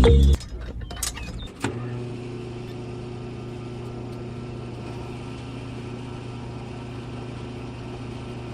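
Small electric motor of a DIY model, switched on after a few clicks about two seconds in, then running at a steady pitch with an even hum.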